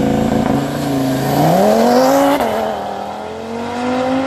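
Audi sedan's engine accelerating hard away, its revs climbing, dropping sharply at a quick upshift about two and a half seconds in, then climbing again in the next gear.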